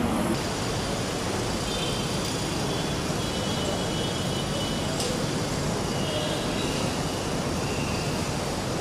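Hyderabad Metro train running, a steady rolling noise with a faint high whine over it.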